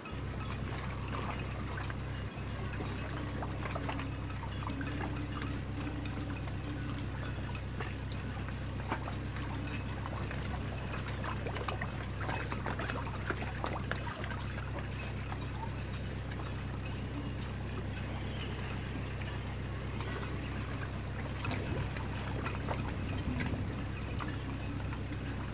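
Water splashing and trickling, with many fine crackles, over a steady low hum.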